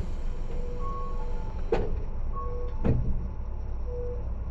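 Tobu 10030 series electric train running, heard from inside the car: a steady low rumble of wheels and running gear. Over it come intermittent beeping tones, and two sharp knocks about a second apart near the middle.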